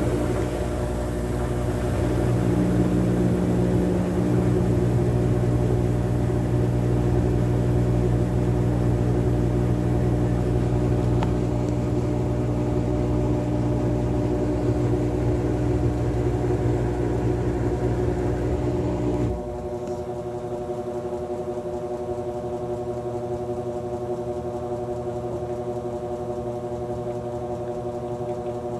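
Whirlpool washing machine spinning a huge load of towels at high speed: a steady motor hum with several held tones over a drum rumble. About two-thirds of the way through, the rumble cuts out abruptly, leaving a quieter steady hum.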